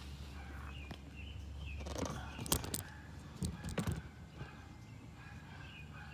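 Outdoor background with faint bird chirps and a low steady hum, broken by a few sharp clicks and knocks between about two and a half and four seconds in.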